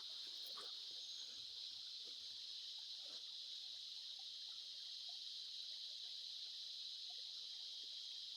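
Evening chorus of crickets and other insects: a steady, faint, high-pitched buzz with no breaks.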